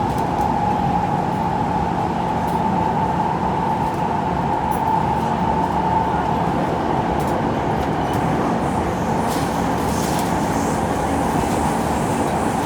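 Steady running noise of a Kawasaki C151 electric multiple unit heard on board at speed: a continuous rumble of wheels on rail with a steady mid-pitched whine and a low hum under it.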